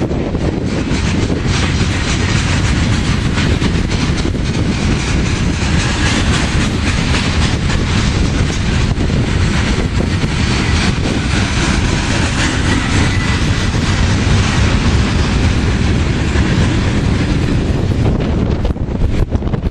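Loaded coal train's cars rolling past steadily, wheels clicking over the rail joints.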